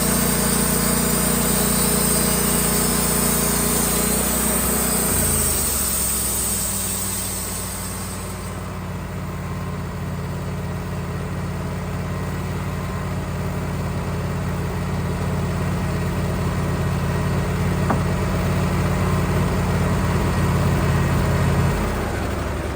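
Band sawmill's engine running with the blade cutting through a poplar log. About five seconds in, the engine note drops and the cutting hiss fades out. The engine then runs steadily at the lower speed until its note drops again near the end.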